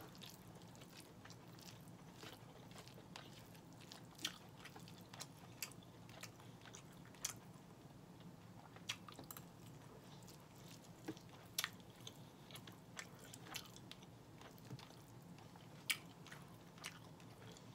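A person chewing mouthfuls of red beans and rice with smoked turkey, with many scattered sharp clicks over a quiet background.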